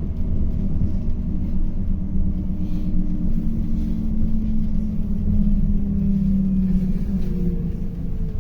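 City bus heard from inside while driving: a steady low rumble of engine and road, with a drivetrain whine that shifts in pitch near the end.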